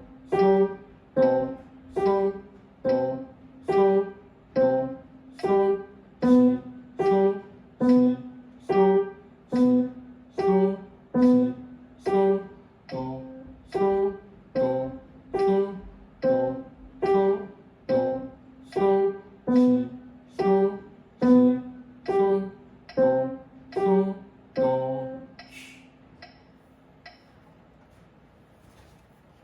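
Piano played at a slow, even pace, one note or chord about every 0.85 s over a steady held tone, as a beginner's practice exercise. The playing stops about 25 seconds in.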